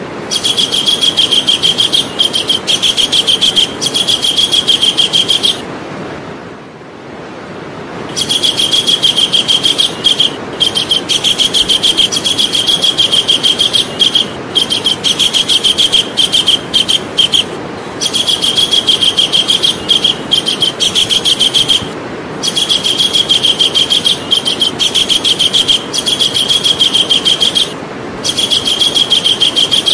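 Javan kingfisher calling: long runs of loud, rapidly repeated high notes at one even pitch, each run lasting several seconds, broken by short pauses and one longer pause about six seconds in.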